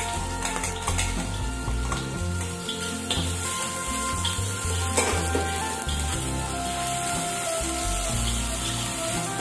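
Chopped garlic and ginger sizzling in a little oil in a steel wok, stirred with a metal spatula that scrapes against the pan now and then. Background music plays underneath.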